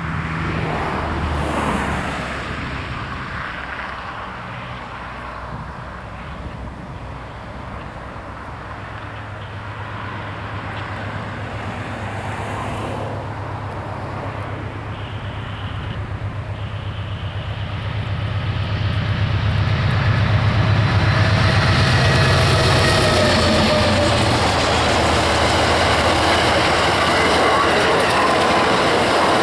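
Amtrak GE P42DC diesel locomotive approaching with a low, steady engine drone that grows louder until it passes about two-thirds of the way in. The passenger cars then roll by with a loud rumble of wheels on rail, clacking and faint high wheel squeal.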